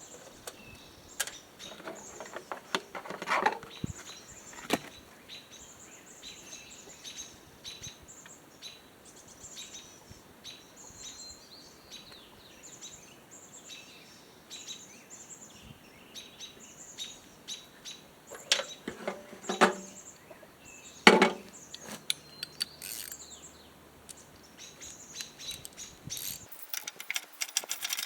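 Small birds chirping over and over, with a few sharp clicks and knocks now and then, the loudest of them about two-thirds of the way in.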